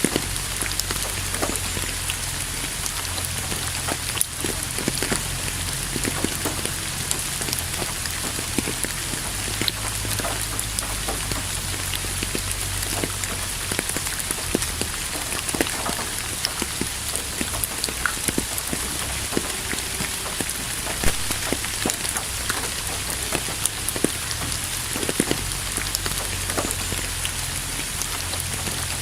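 Steady rain falling, an even hiss with many separate drops ticking sharply through it, over a low rumble.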